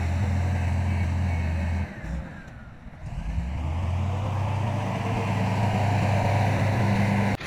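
Heavy diesel engine of earthmoving machinery running with a steady low drone. It drops away about two seconds in for roughly a second, then comes back and builds.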